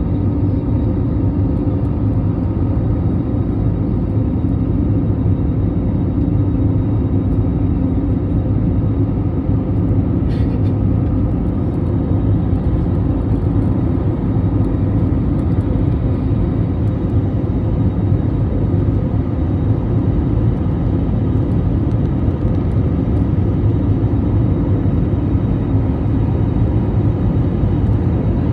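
Airliner jet engines and rushing airflow: a steady, loud, low rumble that holds even throughout.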